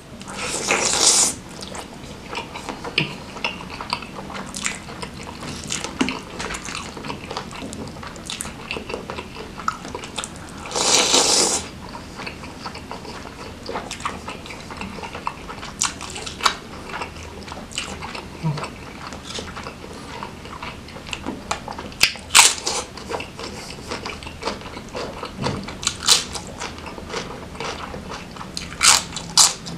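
Close-miked eating of sambal-coated grilled chicken: biting, tearing meat from the bone, wet chewing and lip smacks. Two louder noisy bursts, about a second in and around eleven seconds, and a few sharp smacks near the end.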